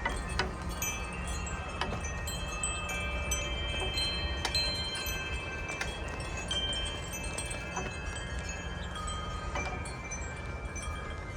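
Several wind chimes ringing in gusty wind: many overlapping strikes, each leaving a long sustained tone, with a steady low rumble of wind underneath.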